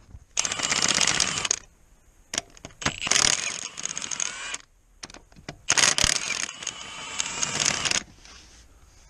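Cordless power tool running fasteners in three bursts of one to two seconds each, with a rapid ratcheting clatter, and a few light metallic clicks between the bursts.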